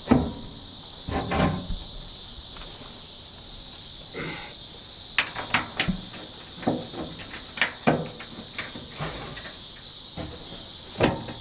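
Scattered knocks, clicks and rubbing of a truck door's window glass and track being handled and worked into place. The loudest knocks come at the start and near the end, with a run of sharp clicks in the middle, over a steady high chirring of insects.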